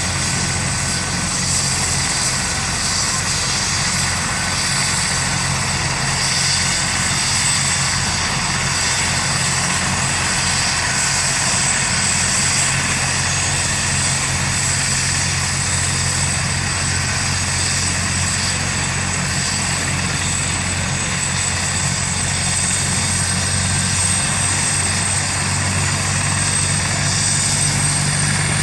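Rescue helicopter running, with a steady rotor thrum and a high turbine whine that rises slightly in pitch near the end.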